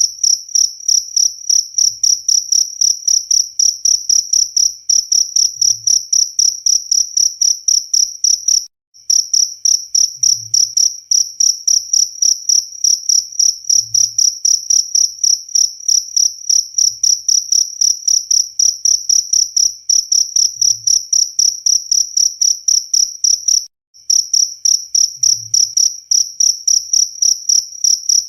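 Cricket chirping loudly and steadily, about four chirps a second on one high pitch. The chirping cuts out briefly twice.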